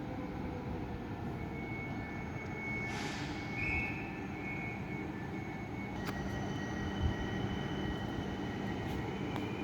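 Train rumbling along at a station, with thin, high, squealing tones from the wheels or brakes. There is a short burst of hiss about three seconds in and a faint knock later.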